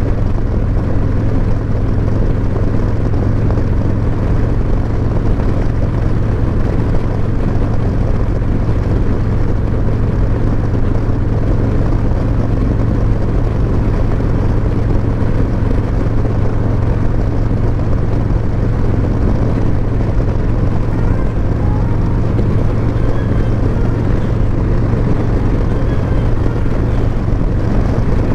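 2021 Harley-Davidson Road Glide Special's Milwaukee-Eight V-twin running at a steady cruise through S&S MK45 slip-on mufflers, a constant low drone with wind noise over it.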